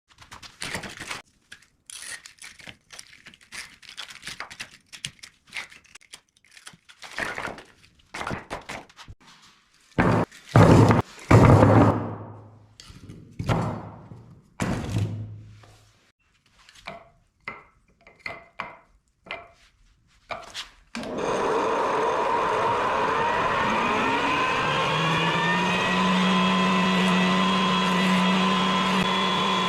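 Irregular knocks and clacks of wooden pieces being handled, with a few heavier thunks in the middle. About 21 seconds in, an electric power-tool motor switches on and spins up, its whine rising for a few seconds and then running steadily.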